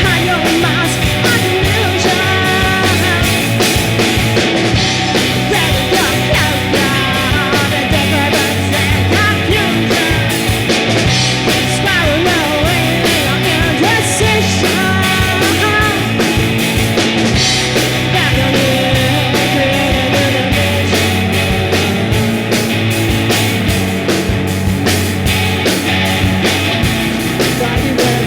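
Rock band playing an instrumental passage of a song, with a steady drum beat under guitars and melodic lines that bend in pitch.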